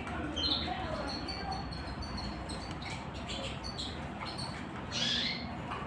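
Small songbirds chirping: short high chirps scattered throughout, with the loudest about five seconds in, over a steady background hiss.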